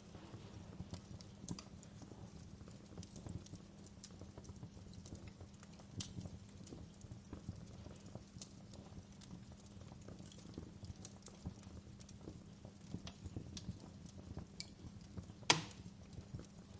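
Wood fire crackling: irregular small snaps and ticks over a steady low rumble, with one much louder pop near the end.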